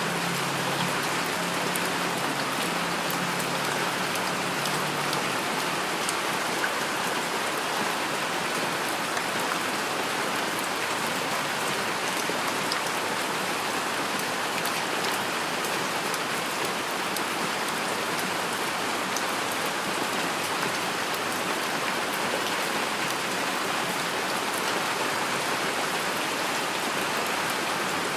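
Heavy rain falling steadily: a dense, even hiss of rainfall with scattered individual drops ticking on a surface.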